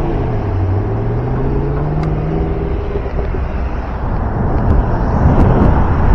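A passing car's engine accelerating, its pitch rising steadily over the first few seconds, then a rough rushing noise like wind on the microphone building toward the end.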